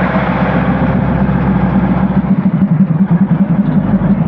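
Diesel train engine running slowly past close by: a steady low throb that turns into an even pulsing of about five beats a second a little over halfway through.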